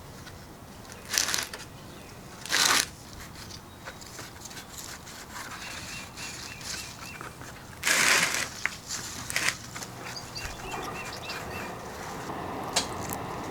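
Three short crunching, rustling noises: two about a second and a half apart, then a louder one about eight seconds in. Behind them, two brief runs of quick, high chirps.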